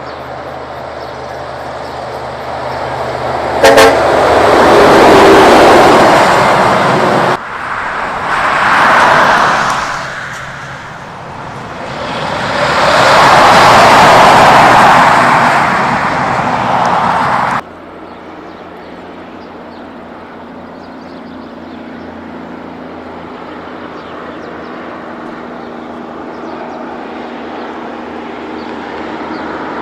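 Kenworth trucks passing on the road, their engine and tyre noise swelling loud and fading three times, with abrupt cuts between the passes. There is a brief horn toot about four seconds in, and a steady, quieter engine hum in the second half.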